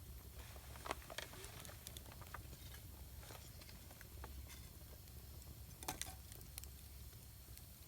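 Wood campfire crackling faintly, with sparse irregular snaps and pops; a couple of sharper pops come about a second in and near six seconds. A steady low rumble sits underneath.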